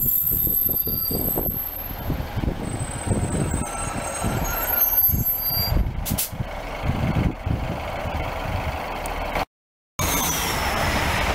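East Midlands Sprinter diesel multiple unit running past close along the platform: steady rumble of wheels on rail and underfloor diesel engine, with thin high squeal tones. After a brief cut near the end, a broader rushing noise of an express train passing at speed.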